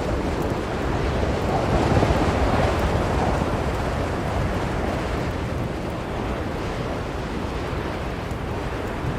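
Strong blizzard wind blowing steadily, with a gust that swells for a couple of seconds near the start and then eases.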